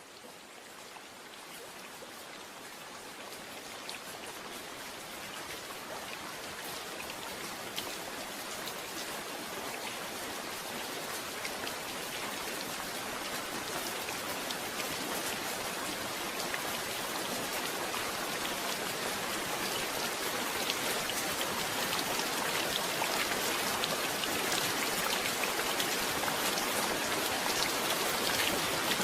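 Rain falling steadily, with many individual drops striking a surface, gradually growing louder over the whole stretch as it fades in.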